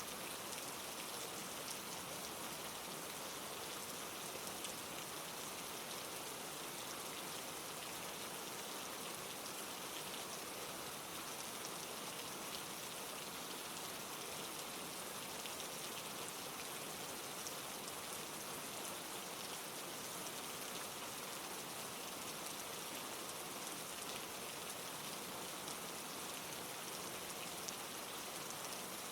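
Steady rain falling, with fine scattered drop ticks and no thunder.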